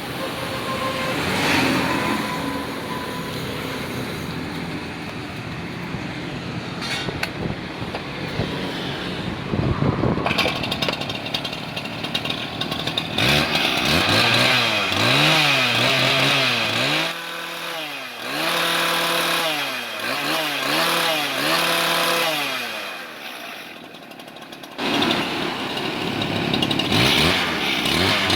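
Steady traffic noise, then the two-stroke engine of a STIHL TS410 cut-off saw being revved up and down over and over from about halfway. Its pitch climbs and falls about once a second, it drops back briefly near the end, then it revs again.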